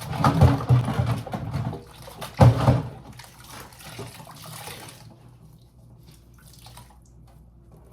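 Water sloshing and splashing in a bucket of bleach water, with louder surges in the first second and a half and again about two and a half seconds in. It dies away after about five seconds, leaving faint handling sounds.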